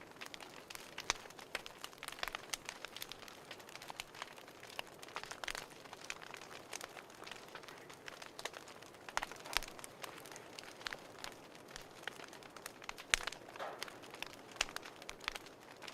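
Wood fire crackling in a fireplace: irregular sharp pops and snaps, several a second at times, over a faint hiss.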